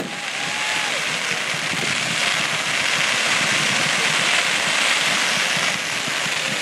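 Fireworks crackling densely and steadily, a rain-like hiss of crackling stars, with a thin whistling tone in the first second.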